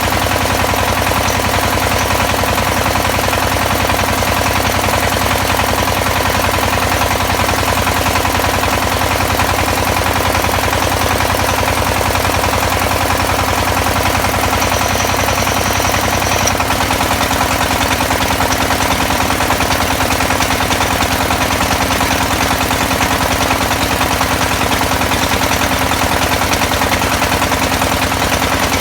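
Engine of an XY-1B well-drilling rig running steadily, a rapid, even pulsing with a hum under it. Its tone shifts a little about halfway through.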